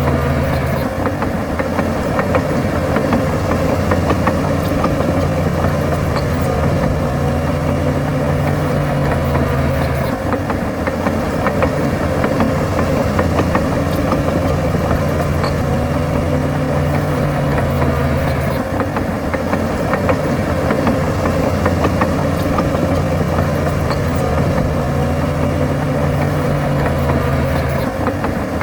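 Heavy diesel earthmoving machinery running steadily, its engine note shifting every few seconds.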